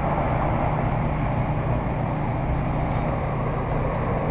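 Steady motor-vehicle engine and road noise, an even low rumble with no breaks.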